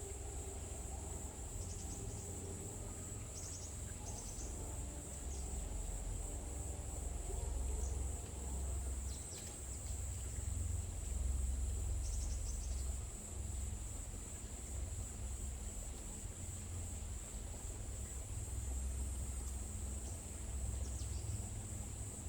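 Forest ambience: a steady high-pitched insect trill, with short bird chirps now and then, over a low rumble.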